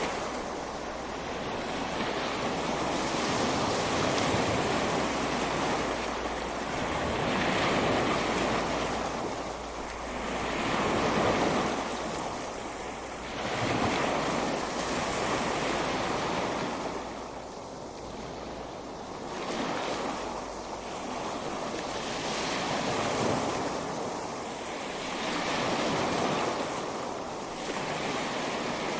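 Ocean surf breaking and washing on a beach, swelling and fading every few seconds.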